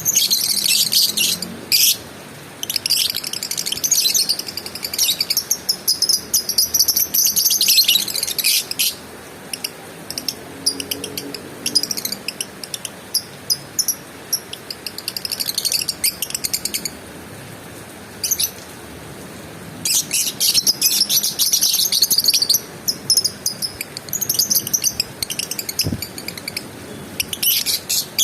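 Lovebird singing: long bouts of fast, high-pitched chattering broken by short pauses.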